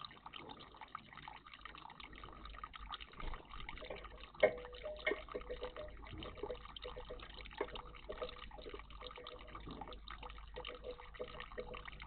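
Water trickling and dripping in a garden bird bath, with small splashes and clicks throughout and a sharper one about four and a half seconds in.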